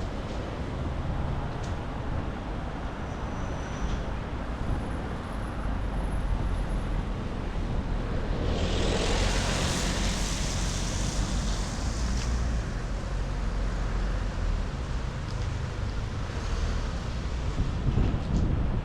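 Wind rumbling on the microphone over street traffic. About nine seconds in, a car passes, its tyres hissing on the rain-wet road for a few seconds.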